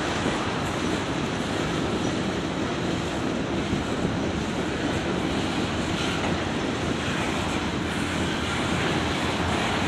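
Freight cars of a long CSX freight train rolling slowly past, a steady rumble of wheels on rail; the train is slowed by a speed restriction.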